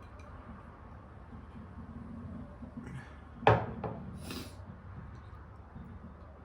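A sharp tableware knock about halfway through, quickly followed by a weaker second knock and a short crisp noisy burst, amid faint eating sounds.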